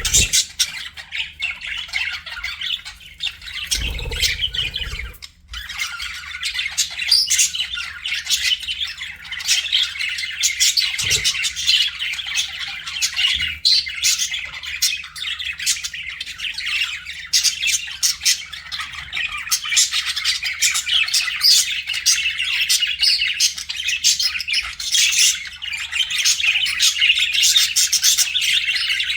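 A flock of budgerigars chattering, chirping and squawking without a break. A brief low rumble comes about four seconds in.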